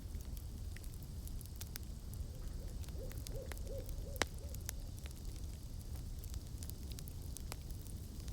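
An owl hooting, a quick run of about six short notes in the middle, over a crackling campfire whose pops and snaps run throughout, with one sharp pop midway.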